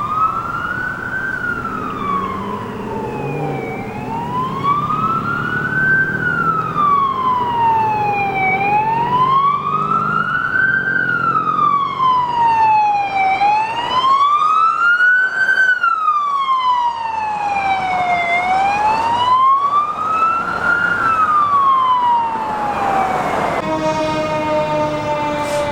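Emergency vehicle siren on the wail setting, its pitch slowly rising and falling about every five seconds. Near the end the wail gives way to a steady tone that slowly drops in pitch.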